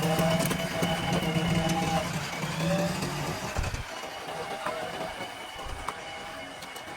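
Diesel engine of heavy earthmoving machinery running with a steady hum, easing off about three and a half seconds in, with scattered clicks and rattles.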